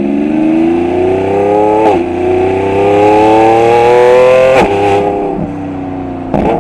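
Lamborghini Revuelto's hybrid V12 accelerating through a QuickSilver stainless cat-back exhaust. The engine note rises in pitch, drops suddenly on an upshift about two seconds in, climbs again to its loudest, and drops on a second upshift. A short sharp crack comes near the end.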